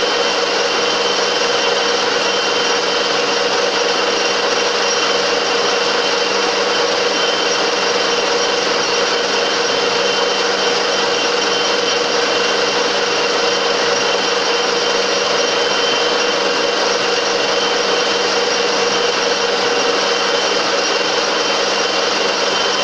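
Metal lathe running steadily, a constant machine hum with a few fixed tones and no change in level.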